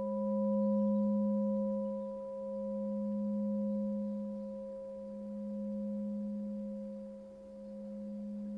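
Singing bowl held in a sustained hum: a low steady tone with two fainter higher overtones, swelling and fading in slow waves about every two and a half seconds.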